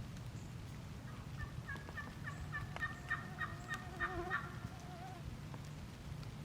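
Turkey yelping: a run of about a dozen quick, evenly spaced notes lasting some three seconds, quickening near the end. A steady low rumble lies underneath.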